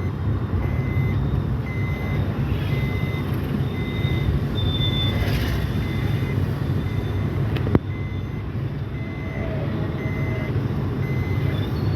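A vehicle's reversing alarm beeping steadily, about three beeps every two seconds, over the low, steady running of its engine. A single sharp click stands out about two-thirds of the way through.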